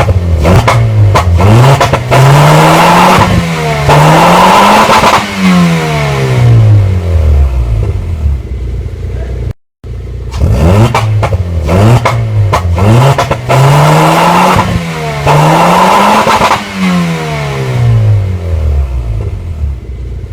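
The swapped-in engine of a Mazda Demio being revved in place: a few quick blips, then longer swells where the pitch climbs, holds high and falls back toward idle. The same run of revs comes again after a brief cut about halfway through.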